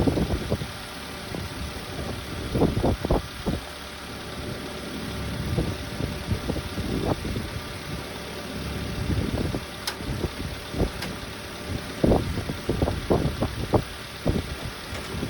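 Subaru Sambar truck's small four-cylinder engine idling with the air conditioning running, as it must be for a refrigerant gas charge. Irregular low rumbles come and go over the steady running.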